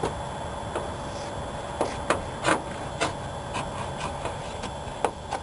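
Handling noises from working on a car's vinyl roof and chrome trim: several light, sharp taps and clicks with some rubbing, over a steady faint hum.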